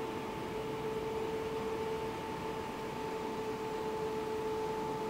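A steady hum with one constant pitch and its octave above, over a background hiss, holding level without change.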